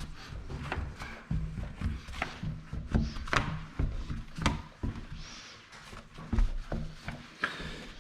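Irregular clicks, knocks and rubbing handling noises, of the sort made by working tools and film against a window pane up on scaffolding.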